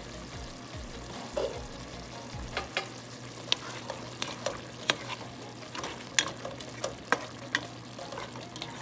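Uncovered pan of chicken livers and gizzards in thick tomato sauce at a boil, a steady sizzle with sharp clicks every so often from about two and a half seconds in, as it is stirred.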